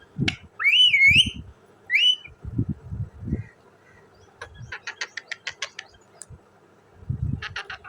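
Indian ringneck parrot giving short wavering whistles, then a quick run of dry clicks, about eight a second, and a shorter run near the end. Low thuds come in between the calls.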